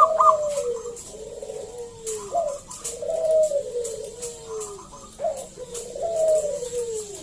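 Zebra dove (perkutut) cooing: three phrases of soft, rolling coos, each gliding down in pitch at its end, starting near the beginning, about two seconds in and about five seconds in.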